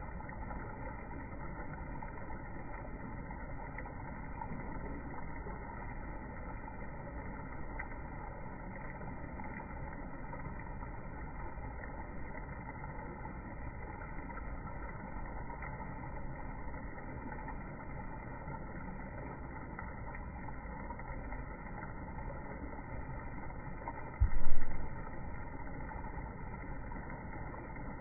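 Steady low background rumble, with one brief low thump near the end that is the loudest sound.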